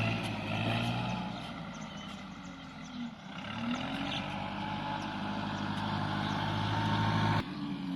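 Large truck engine running with a steady hum, its pitch dipping and rising briefly about three seconds in; the sound drops off suddenly near the end.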